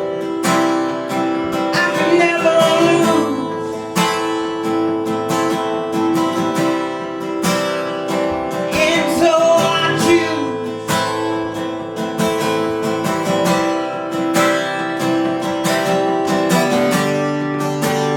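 Acoustic guitar strummed in steady rhythmic chords, an instrumental break between sung verses of a song.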